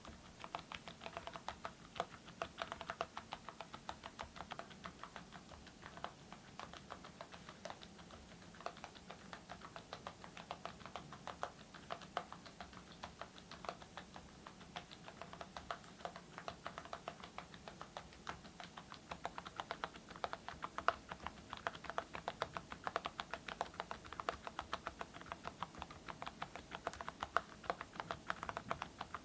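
Continuous typing on a mechanical keyboard fitted with Awekeys full-metal keycaps over silent (low-noise) switches: a steady run of rapid keystroke clicks.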